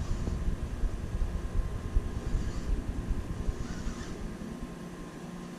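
Wind buffeting the microphone, a low rumble that eases off toward the end.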